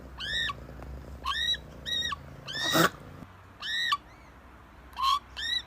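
A cat chirping: a string of about eight short, high-pitched, arched chirps, irregularly spaced.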